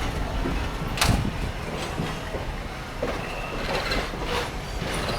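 A train running along the track: a steady rumble with occasional sharp clacks from the wheels, the loudest about a second in.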